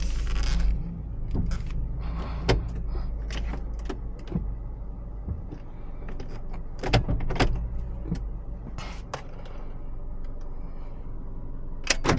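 Honda CR-V engine running at low speed, heard from inside the cabin, with a string of clicks and knocks from controls and fittings being handled as the car is parked.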